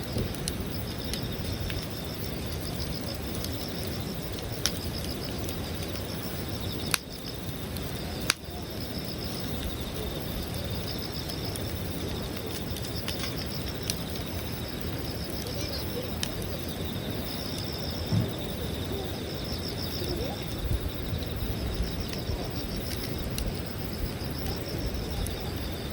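Wood campfire burning with a steady crackle and a few sharp pops, while insects chirp in short pulsed trills that repeat about once a second.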